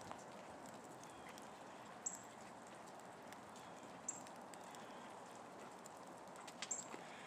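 A small bird's short, high chip call repeated about every two seconds over faint outdoor ambience, with a few sharp clicks near the end.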